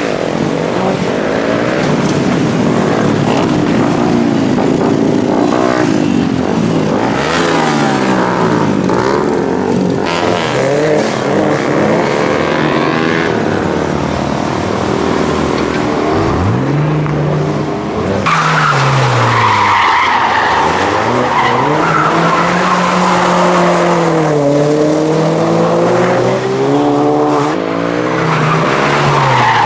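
A car doing a burnout or donuts: the engine revs up and down over and over while the tyres squeal and skid continuously, the squeal strongest in the second half.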